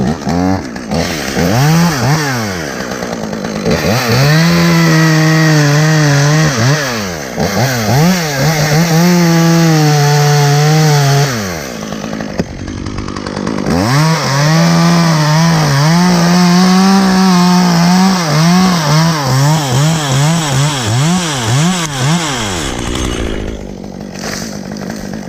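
Two-stroke chainsaw revved in quick blips, then held at full throttle in long stretches, cutting into the dead ash tree, with brief drops in revs between cuts; it falls back toward idle near the end.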